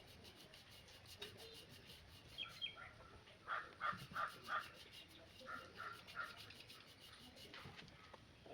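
Bird calling: a quick run of four calls about three and a half seconds in, then three fainter calls a second later.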